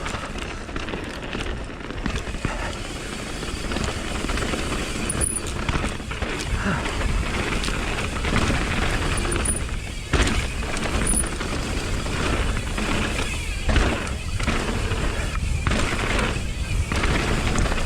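Mountain bike riding down a dirt trail: wind rushing over the microphone, tyres rolling on dirt and the bike rattling over bumps, the noise swelling and dipping with a few sharp knocks.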